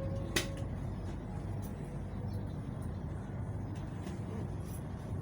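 Electric train running with a steady low rumble. A rising motor whine dies away about half a second in, just as a single sharp click sounds.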